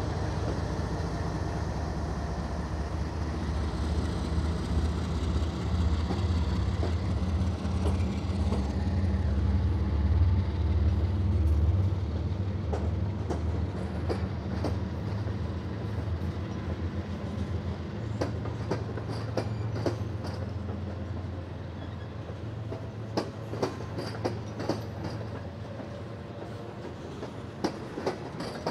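Norfolk Southern freight train passing close by. The diesel locomotive's low rumble is loudest over the first dozen seconds and then eases as hopper and tank cars roll past, their wheels clicking and clacking over rail joints, with the clicks coming more often near the end.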